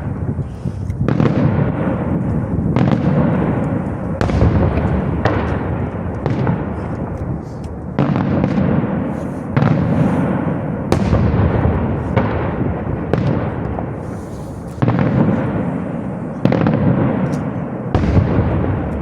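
Aerial fireworks display: a dense run of loud bangs from bursting shells, one following another every second or so, each dying away in echo before the next.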